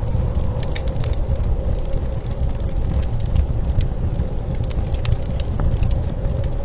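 Wood fire crackling with frequent sharp, irregular pops, over a steady low rumble of blizzard wind.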